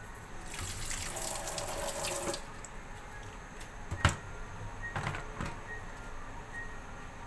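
Water running for about two seconds, then a single sharp knock a little after four seconds in, followed by a couple of lighter clicks.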